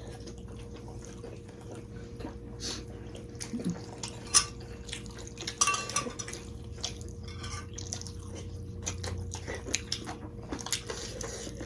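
Eating at the table: irregular clicks of cutlery against plates and bowls, with wet soup-eating sounds, over a faint steady hum.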